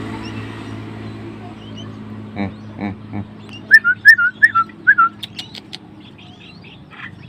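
A baby bird being hand-fed chirps: a quick run of about six short, high, falling chirps in the middle, with softer calls and a few clicks around them.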